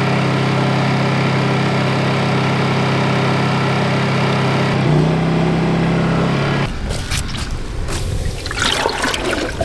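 Portable generator engine running steadily at full throttle with eco mode off, its pitch stepping up about five seconds in. It cuts off at about seven seconds to splashing, pouring water.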